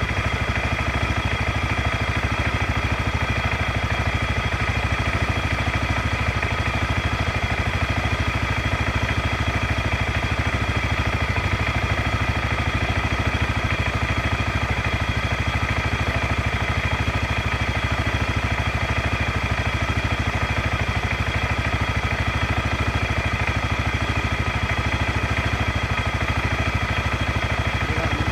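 ATV engine idling steadily, its pitch and loudness unchanging throughout.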